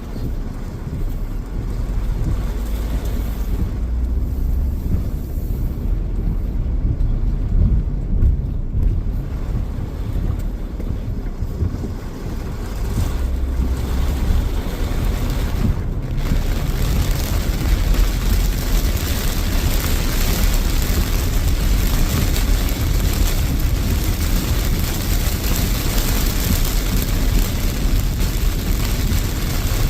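Heavy thunderstorm rain and wind, with gusts buffeting the microphone into a deep, uneven rumble. The hiss of the downpour grows louder and fuller a little past halfway.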